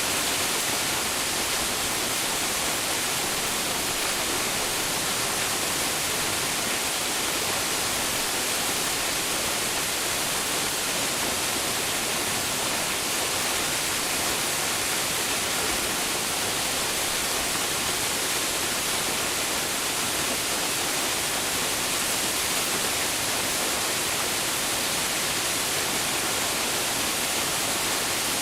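Waterfall pouring steadily, a constant hiss of falling water with most of its energy in the upper range and no changes.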